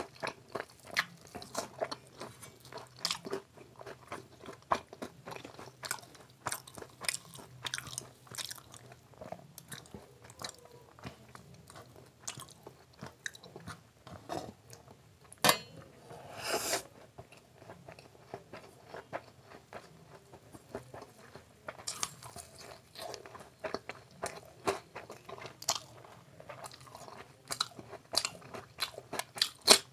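Close-miked chewing and crunching as a man eats by hand: fried aubergine slices (begun bhaja) and vegetable fried rice, with many short wet mouth clicks and smacks throughout. About halfway through there is a louder, longer mouth sound.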